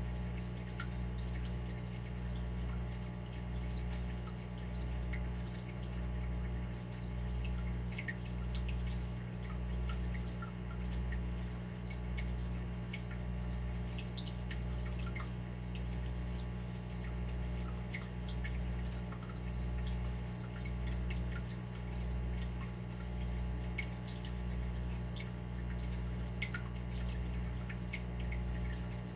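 Water dripping and trickling steadily, with many small sharp drips over a low hum that swells about once a second.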